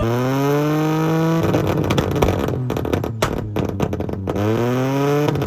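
A car engine revved hard twice, its pitch climbing with each rev, with a rough stretch of sharp pops and crackles in between.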